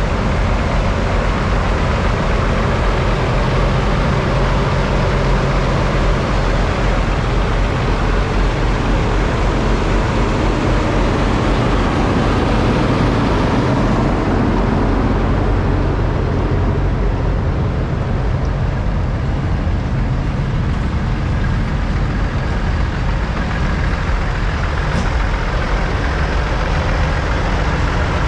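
Semi-truck diesel engines running steadily.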